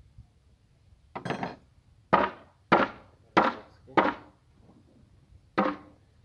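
Hammer blows: a quick double strike, then four evenly spaced strikes about two-thirds of a second apart, and one more after a pause.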